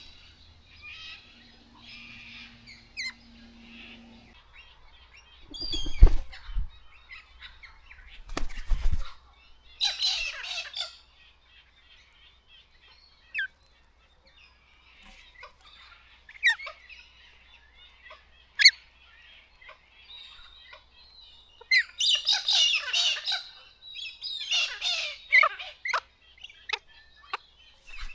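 Galahs giving harsh, screechy calls in several bouts, the loudest a third of the way in and twice near the end, with short chirps in between. Two deep thumps come in the first third.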